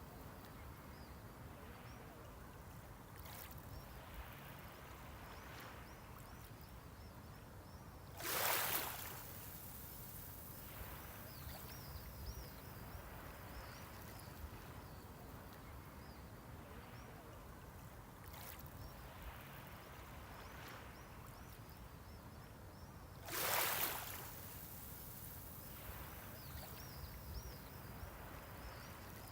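Small waves on a Mediterranean shore: a steady low wash of sea, with two waves breaking in a brief hissing rush about fifteen seconds apart.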